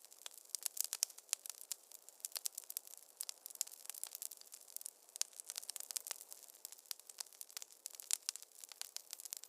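Wood fire crackling: a dense run of small sharp pops and snaps over a faint hiss, with no low rumble.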